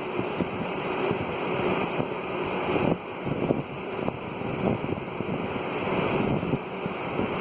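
Wind buffeting a phone's microphone in a storm: a steady rushing noise that swells and dips irregularly.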